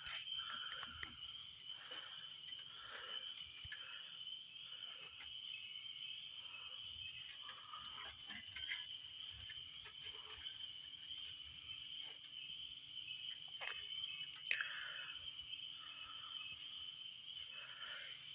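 Faint chorus of insects calling: a steady high-pitched trill throughout, with softer calls recurring about once a second.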